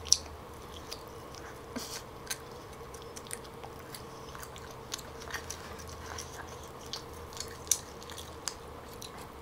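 Close-up chewing of smoked turkey leg meat, with scattered soft wet clicks and smacks, the sharpest just after the start and again near the end. Meat strands are being torn from the leg by hand, over a faint steady hum.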